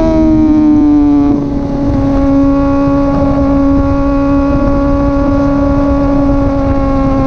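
Honda CBR600RR inline-four engine running at a high, even pitch through its slip-on exhaust; the pitch eases down over the first second or so, then holds steady.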